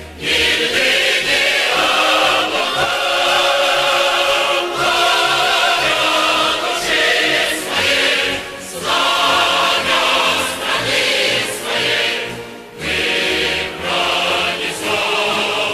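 Choir singing as a music track, held notes in several parts with brief breaks between phrases.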